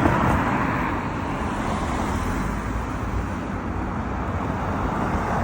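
Steady car engine and traffic noise, an even rushing sound with no separate pops or bangs.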